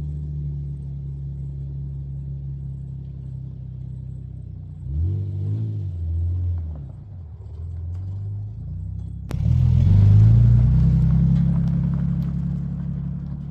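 Nissan Pathfinder's V6 engine running while driving: a steady low hum, with the revs rising and falling about five seconds in, then a louder pull with the pitch climbing from about nine seconds.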